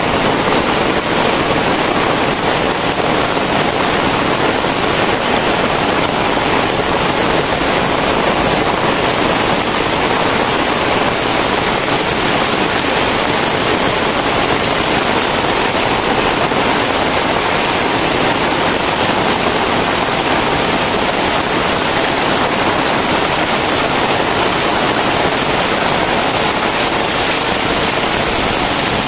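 Very heavy rain pouring down steadily, a dense, even wash of sound with no letup.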